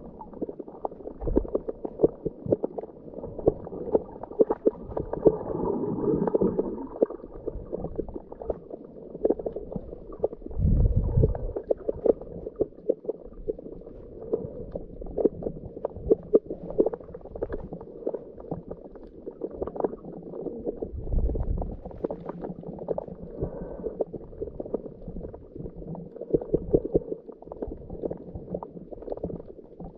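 Underwater sound of a diver's scuba breathing: exhaled bubbles from the regulator gurgle up in heavier swells about every ten seconds, over a steady crackle of many small clicks.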